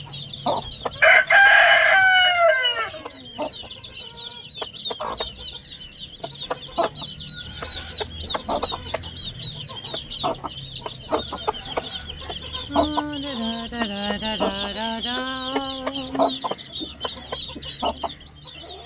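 Chicks peeping continuously in a flock while feeding on boiled rice, with an adult chicken calling loudly about a second in and again in one long drawn-out call of about three seconds later on.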